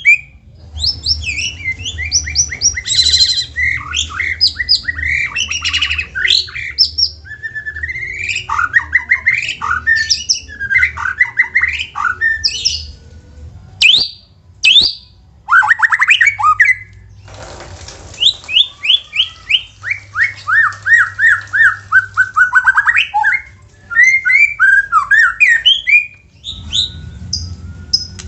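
White-rumped shama singing a fast, varied song of sharp whistled notes and rapid trills, with a short harsh rasping burst about two-thirds of the way through.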